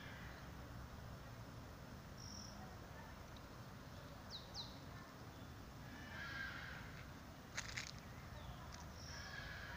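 Faint outdoor ambience with a few short, high bird chirps and two quick falling whistles near the middle. There is a sharp click about seven and a half seconds in.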